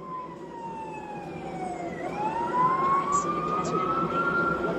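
An emergency vehicle's siren wailing in one slow sweep: it falls in pitch for about two seconds, then rises again, over steady traffic and engine noise.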